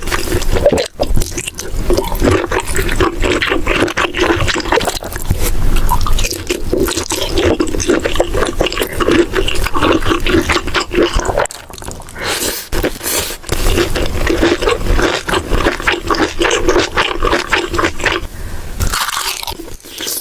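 Close-miked eating: steady crunching and chewing of food with wet mouth sounds, briefly dropping off twice.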